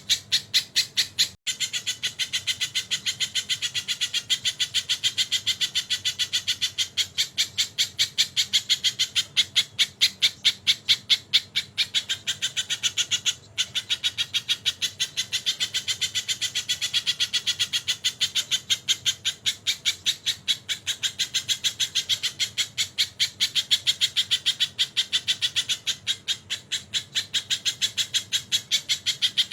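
A sogon bird singing a fast, steady run of sharp repeated notes, about three to four a second. The notes are a kingfisher-like (tengkek) call that the bird has taken into its song. The run breaks off twice for an instant.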